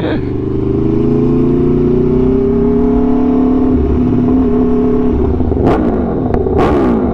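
Aprilia Tuono V4 1100's V4 engine through an SC-Project exhaust, under way with the revs rising slowly for the first few seconds. Near the end the revs fall and rise quickly a few times, with a few sharp cracks.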